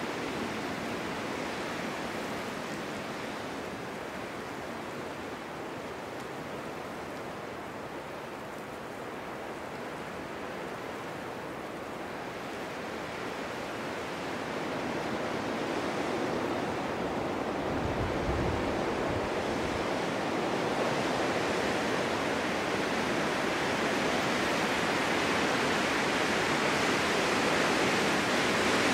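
Snowstorm wind blowing as a steady rushing noise that grows stronger through the second half, with a brief low rumble about two-thirds of the way in.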